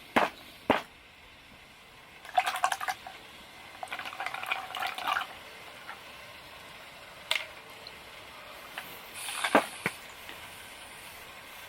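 A few sharp knocks and short bursts of clattering, as of camp gear being handled, with quiet between them.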